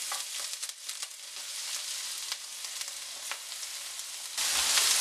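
Crushed ginger and garlic sizzling in hot oil with whole cardamom, cloves and cinnamon, with scattered small crackles. The sizzle grows louder about four and a half seconds in, as more of the crushed garlic goes into the oil.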